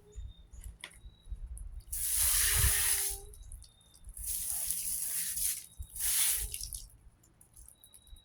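Garden hose spraying water onto box fan parts in three bursts of a second or so each, with short pauses between.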